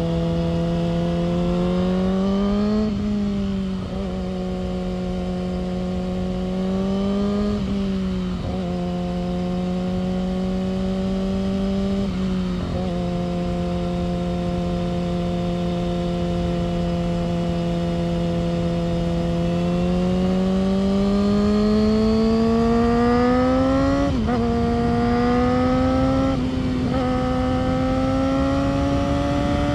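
Yamaha R6 sport bike's inline-four engine and exhaust under way, mostly holding a steady pitch and climbing slowly under throttle, with several brief dips where the rider changes gear.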